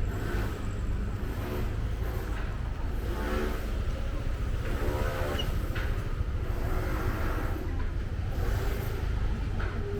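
Street traffic: a steady low rumble of vehicle engines passing, with pitched engine or voice sounds rising and falling now and then.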